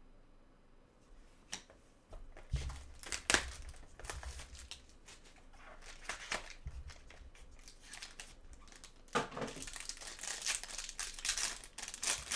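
Crinkling and tearing of trading-card pack wrapping, with light clicks and scrapes as cards are handled; the crinkling gets denser about nine seconds in.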